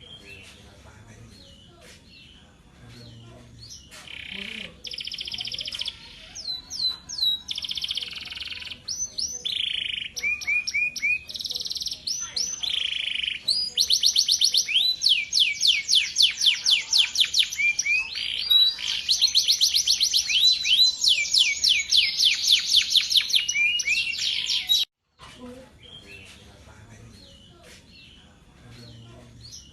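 Male canary singing a long, varied song of high-pitched phrases and fast trills, loudest in the second half and stopping abruptly a few seconds before the end.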